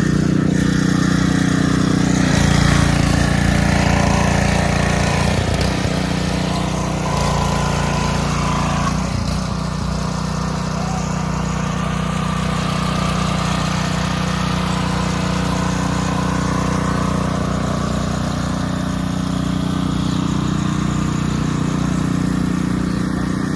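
A small engine running steadily, with a slight change in its note about two seconds in.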